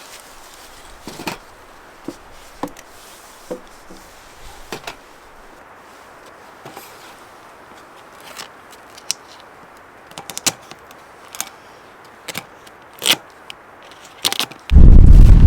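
Scattered light clicks and knocks over a low steady hiss. About a second before the end, a sudden loud low rumble takes over.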